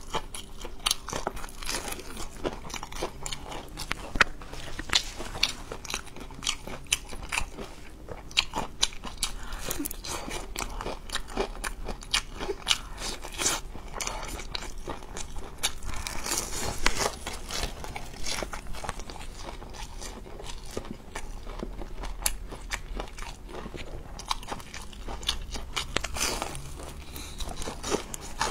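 Biting and chewing a crispy breaded fried chicken cutlet: a dense run of sharp, crackly crunches, close on a clip-on microphone.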